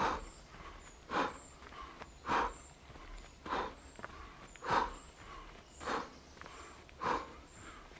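Sharp, rhythmic exhalations of a person shadow boxing, about one every 1.2 seconds, each timed with a roll under an imaginary punch.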